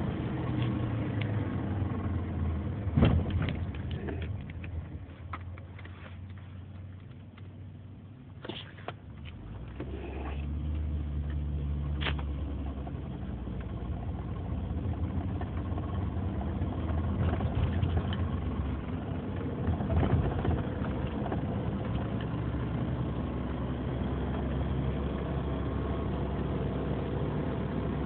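2003 Nissan Murano's 3.5-litre V6 engine running steadily, the owner's complaint being a strange clicking, tapping engine noise. A brief thump about three seconds in, and the engine sound grows fuller and deeper about ten seconds in.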